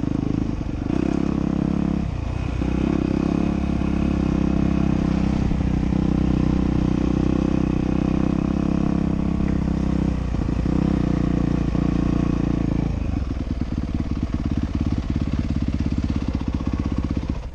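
Dirt bike engine running steadily and loudly, easing off briefly about two, ten and thirteen seconds in, then running rougher and lower near the end before cutting off suddenly.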